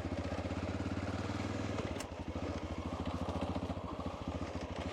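Honda Dominator motorcycle's single-cylinder engine running with a steady pulse. A click about two seconds in, after which the engine note changes.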